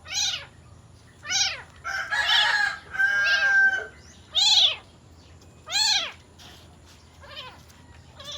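A domestic cat meowing over and over in about seven loud calls, each rising and falling in pitch. The two calls in the middle are longer and drawn out, and one near the end is fainter. The cat is calling out after its missing kittens.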